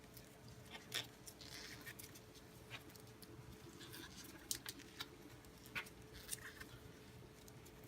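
Faint scattered clicks and rustles of hands working electrical tape around engine wiring, over a faint steady hum.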